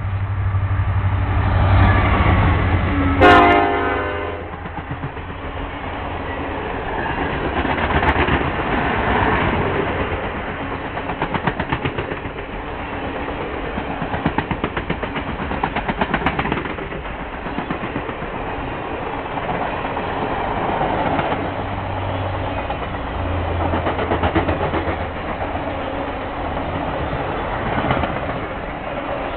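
Circus train passing at speed: the diesel locomotive's rumble and one short horn blast about three seconds in, then the long string of passenger cars rolling by, their wheels clicking rhythmically over the rail joints.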